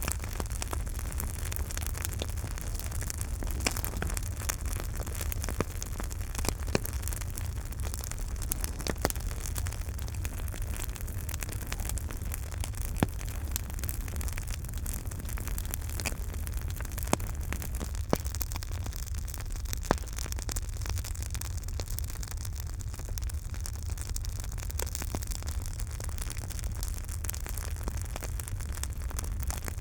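Campfire burning: a steady low rumble and hiss with irregular sharp crackles and pops, a handful of them louder than the rest.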